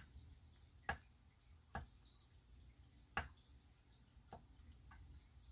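Faint, sharp taps of a small glass shot glass being pressed onto glossy photo paper on a work surface, five knocks at uneven spacing.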